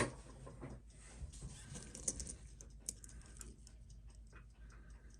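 Faint, irregular light clicks and taps from a wristwatch and its metal bracelet being handled.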